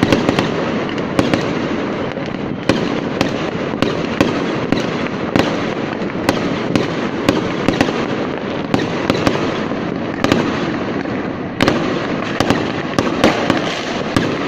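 Aerial fireworks going off: a rapid, irregular string of sharp bangs, several a second, over a constant dense wash of noise from the bursts.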